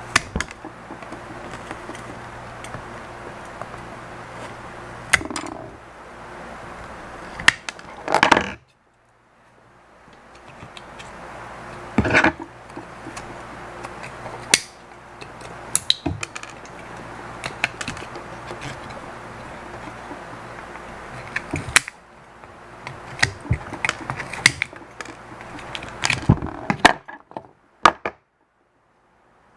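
Scattered clicks, knocks and rattles of small plastic and metal parts and hand tools being handled while an electronic counter is taken apart, over a steady low hum and hiss. The background drops out briefly twice.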